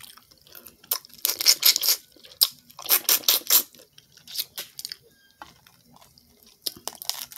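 Close-up wet chewing and lip-smacking on a mouthful of seafood boil, in two bursts about a second and three seconds in. Scattered clicks follow near the end as shellfish are peeled by hand.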